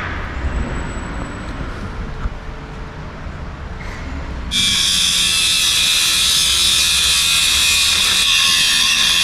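A low rumble, then about halfway through an angle grinder starts suddenly and cuts steadily through the steel door shaft with a loud, high hiss.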